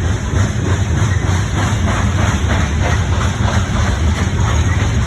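Train running by at a grade crossing: a steady low rumble, with a quick, even run of light clicks through the middle.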